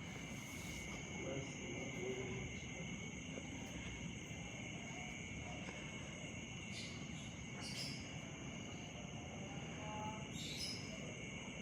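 Faint, steady high-pitched chorus of insects, with a few soft knocks scattered through it.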